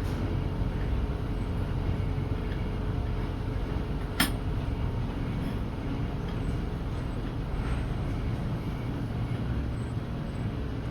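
Steady low hum and rumble of workshop machinery, with one sharp metallic click about four seconds in and a few fainter ones later.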